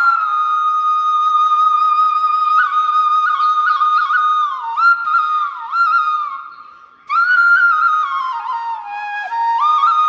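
Solo flute melody with long held notes and ornamented slides between them, pausing briefly for breath a little past the middle.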